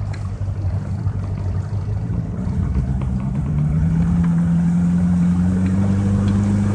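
Yamaha 115 hp two-stroke outboard motor running under way. About two seconds in, its pitch and loudness climb as it picks up revs, then hold steady.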